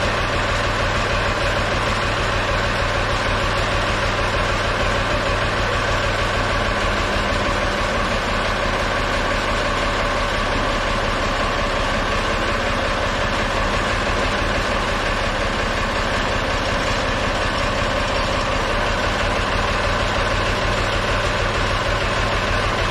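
Ford backhoe's engine running steadily at an even speed, with no change in pitch or level.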